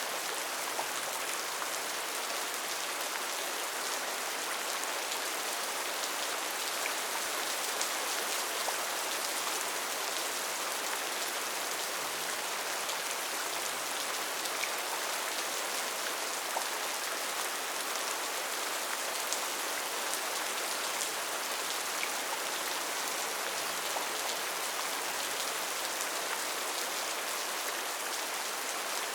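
Steady rainfall in a rainforest: an even hiss of rain with scattered sharper ticks of single drops striking.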